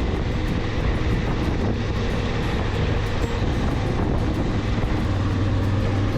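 Honda Africa Twin motorcycle running at a steady pace on the road, its engine hum under heavy wind noise on the microphone.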